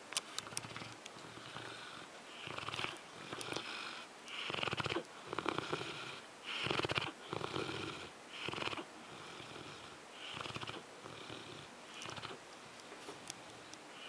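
Dogue de Bordeaux (French Mastiff) snoring in its sleep: a run of rattly snores at uneven gaps, about one a second, loudest in the middle.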